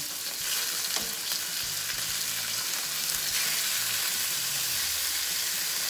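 Thin chicken breasts sizzling steadily in hot olive oil in a frying pan as they are turned over to brown the second side, with a light click about a second in.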